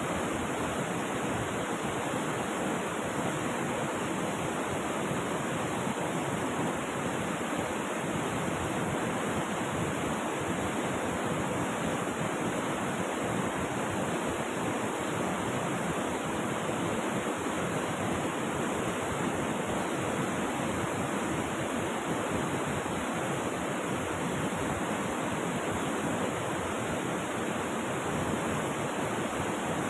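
Rushing river water, a steady, unbroken flow with no separate splashes or changes.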